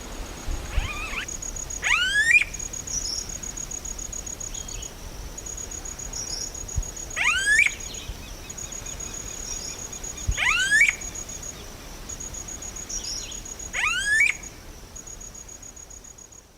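A bird giving a loud, sharply rising call four times, a few seconds apart, over the steady high, rapid pulsing trill of an insect.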